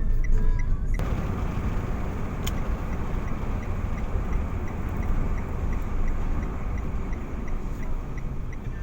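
Steady rumble of a car on the road, starting about a second in, with faint, evenly spaced high ticks over it.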